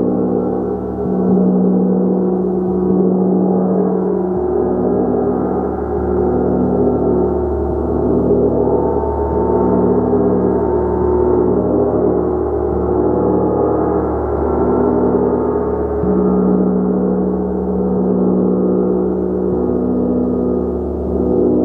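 A large gong kept sounding continuously: a dense, sustained wash of overlapping tones with slow swells in loudness and a low hum that wavers and pulses.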